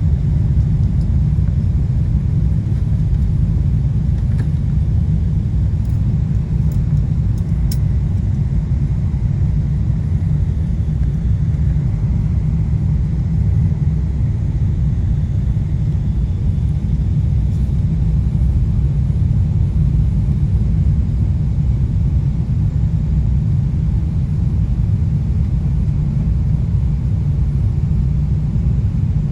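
Steady low rumble of a Boeing 777-200 airliner's engines and airflow, without rising or falling.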